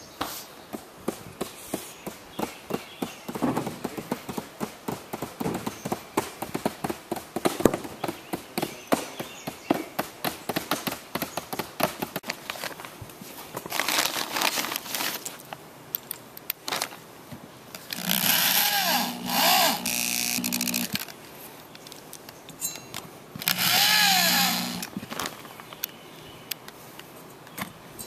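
A power drill runs in two bursts, about three seconds and then about a second and a half, its motor whine dipping and rising in pitch. Before that, a long run of quick irregular clicks and knocks.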